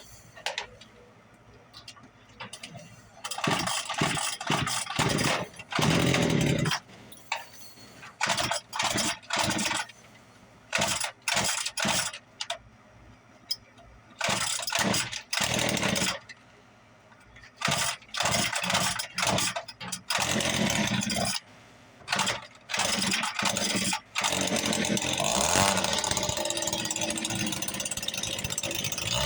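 Small two-stroke engine being cold-started: a series of short bursts as it is cranked over and fires briefly, then it catches about 24 seconds in and keeps running steadily.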